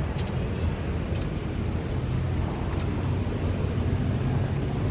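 Strong wind buffeting the microphone over a steady low engine drone.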